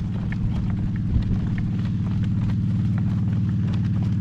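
A horse's hoofbeats at a slow trot, heard as short irregular clicks over a steady low wind rumble on the microphone.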